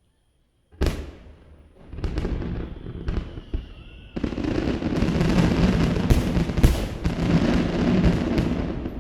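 Fireworks display: a sharp burst about a second in, a few more booms, then from about four seconds a dense barrage of bursts and crackling shells going off together.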